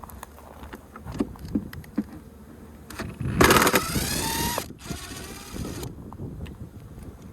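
A motor vehicle goes past about three and a half seconds in, its engine note falling in pitch as it passes, loud for about a second and then fading. Light clicks and knocks of handling come before it.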